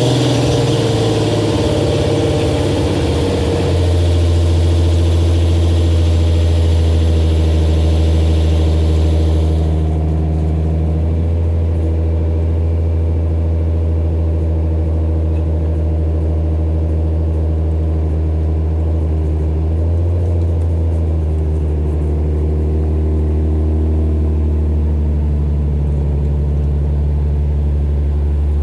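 Nissan 300ZX's naturally aspirated 3.0-litre V6 (VG30DE) idling steadily through a custom aftermarket exhaust, just after a cold start. A hiss over the engine note stops about ten seconds in.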